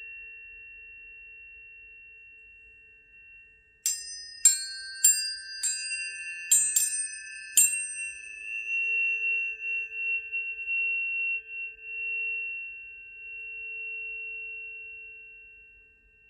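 Tuning forks struck one after another, about seven sharp metallic strikes in under four seconds, starting about four seconds in. Several clear pure tones ring on together and slowly fade away.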